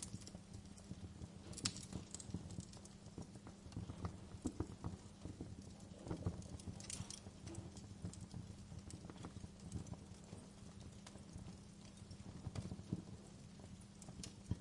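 Wood fire crackling: irregular small pops and snaps, a few of them louder, over a low steady bed.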